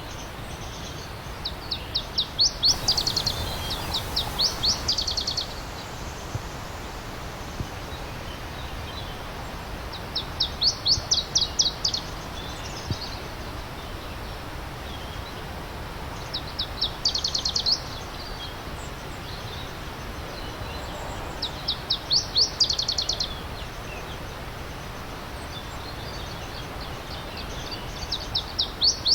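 A songbird repeating a short song of rapid high notes, each phrase lasting under two seconds and coming back about every five to six seconds. Under it runs the steady rush of stream water.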